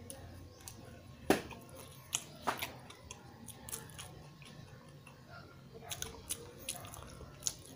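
A person chewing a mouthful of grilled tuna sandwich close to the microphone, with scattered sharp mouth clicks, the loudest about a second in.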